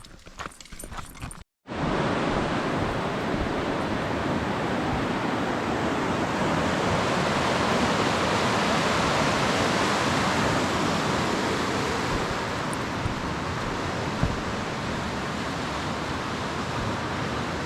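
Footsteps on the trail for the first second or so, then, after a sudden cut, the steady rush of a fast mountain creek running over rocks.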